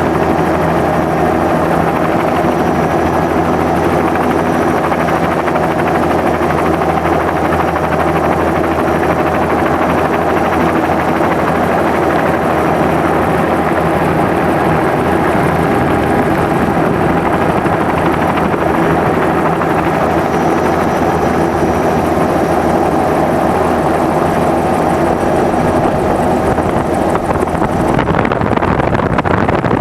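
Helicopter in flight: the engine and rotor make a loud, steady drone at a constant pitch. Near the end the high hiss drops away.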